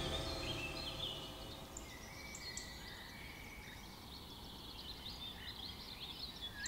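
Faint forest ambience: scattered short, high bird chirps over a low, steady background hush, as the tail of the preceding music fades out in the first second or so.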